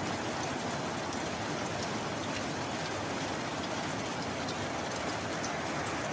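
Steady rain falling in a continuous hiss, with scattered individual drops ticking through it.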